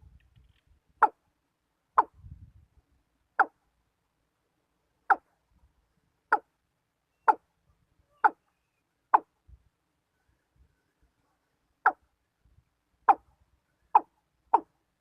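Watercock decoy calling with short, sharp single notes, mostly about a second apart, coming faster near the end.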